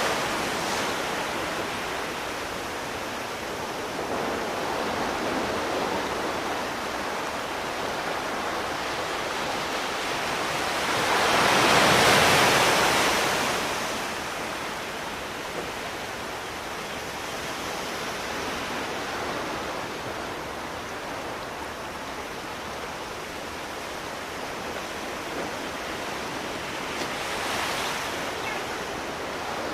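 Sea surf washing ashore: a steady hiss of water with one large wave swelling and breaking about twelve seconds in, and a smaller one near the end.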